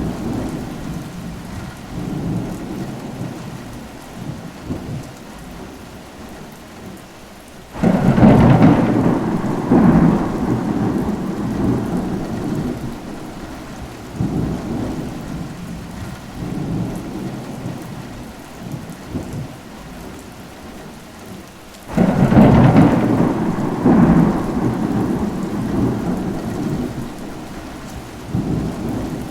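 Steady rain with two rolls of thunder. Each starts suddenly, one about a quarter of the way in and one about three-quarters of the way in, and rumbles on for several seconds before fading back into the rain.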